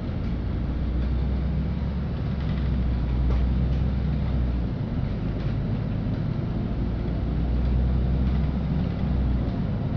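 Interior of a LiAZ-5292.65 city bus under way: steady engine and road rumble, with a deep drone that breaks off briefly about five seconds in and again near the end.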